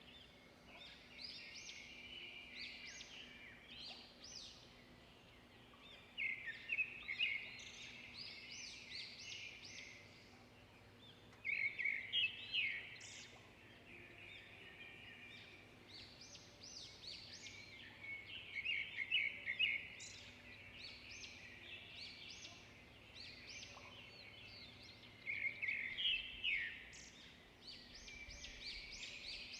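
Songbirds singing and chirping continuously, with louder bursts of rapid song every several seconds.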